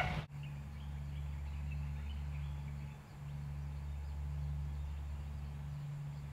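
Steady low hum that dips briefly twice, with faint bird chirps over it in the first couple of seconds.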